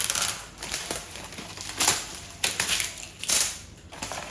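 Packaging being handled, rustling and crinkling in several short bursts.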